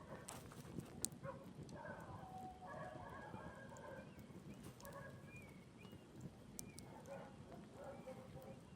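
Wood campfire crackling faintly, with scattered sharp pops, the loudest about a second in. Faint short chirping tones sound in the background.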